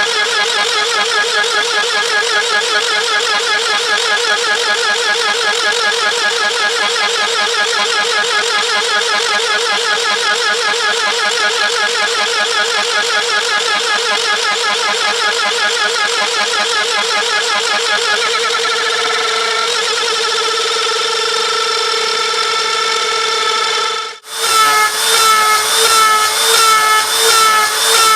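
CNC router spindle and endmill milling 6082 aluminium: a steady whine with a fast, regular pulsing as the cutter bites. Near the end it breaks off suddenly and comes back with sharper chirps repeating in an even rhythm.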